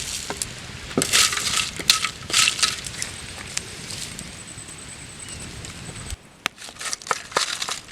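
Whole spices (cinnamon and other dry spices) dry-roasting in a pan while being stirred: a dense run of crackles, clinks and scraping that thins out to scattered clicks after about six seconds.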